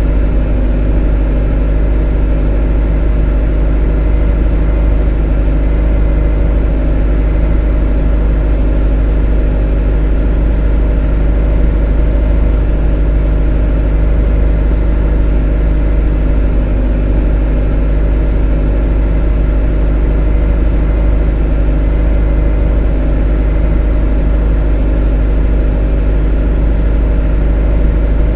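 A motor running steadily at a constant speed: a deep, even drone with a layered hum above it that does not change.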